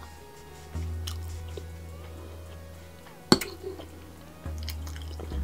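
Close-up chewing and eating sounds over soft background music with deep, sustained bass notes. About three seconds in, a metal fork clinks sharply against the glass bowl.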